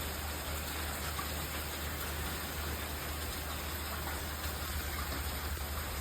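Steady rain falling and running off, an even hiss throughout, with a steady low hum underneath.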